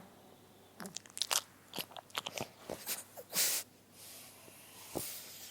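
A sleeping pug's mouth and nose noises: a run of wet clicking and smacking sounds, then a short, loud hissing breath a little past three seconds in, followed by quieter breathing.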